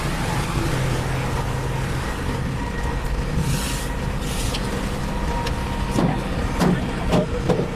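Heavy diesel engine of construction machinery running steadily, with two short hisses past the middle and a few sharp metallic knocks near the end.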